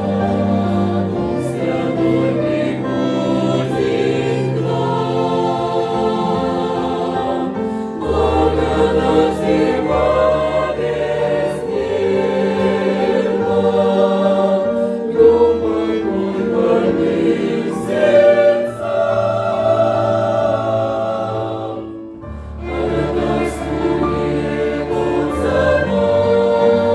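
Church choir singing a hymn in harmony with accompaniment, briefly falling quieter about 22 seconds in before resuming.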